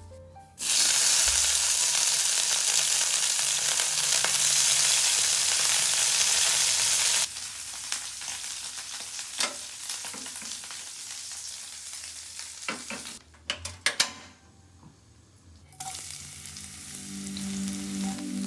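Food frying in hot oil in a pan, sizzling loudly for the first several seconds, then sizzling more quietly with a few sharp knocks from the pan and utensils. The sizzle stops briefly about two-thirds of the way through and starts again near the end.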